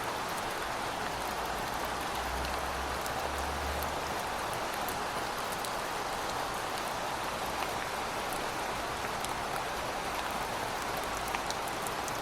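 Heavy rain falling steadily, an even hiss with scattered sharp drop ticks on a hard surface. A faint low rumble sits under it from about two to four seconds in.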